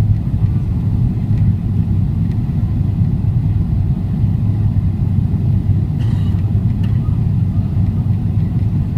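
Steady low rumble of cabin noise inside a Boeing 777-300ER airliner, even in level throughout.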